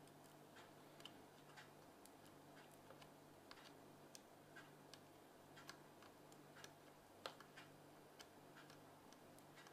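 Near silence: faint, irregular small clicks, a few a second, over a faint steady low hum.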